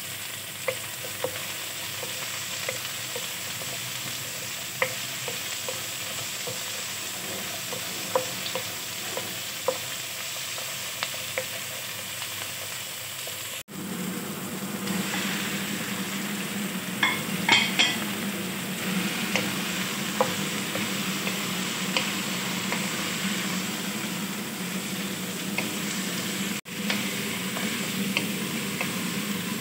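Chopped onions, tomatoes, lemongrass and green chilies sizzling in oil in a wok, with small taps and scrapes of a spatula stirring them. About halfway through, raw chicken pieces go into the pan with a few clatters, and the sizzle becomes a little louder and fuller as they are stirred with a wooden spatula.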